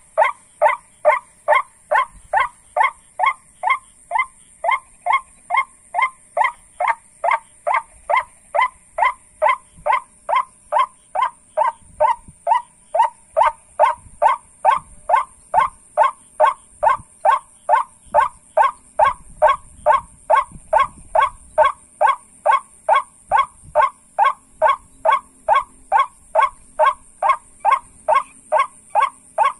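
Waterhen lure call: a short call repeated steadily, about two a second, with the even rhythm of a lure rather than a wild bird. It is played to draw white-breasted waterhens in for catching.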